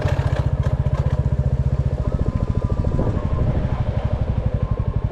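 Royal Enfield Classic 350's single-cylinder engine running at low revs with an even, rapid exhaust beat, with a few short rattles over it.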